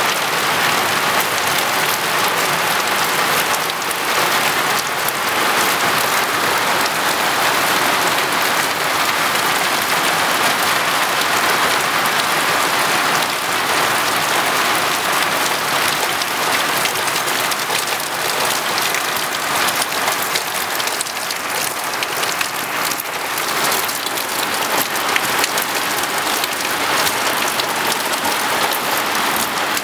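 Heavy summer downpour: dense, steady rain pelting down, with countless fine drop impacts.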